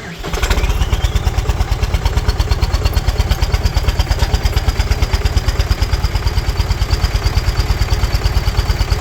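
A tractor engine is key-started and catches at once, revving up briefly, then settles into a steady, evenly pulsing run.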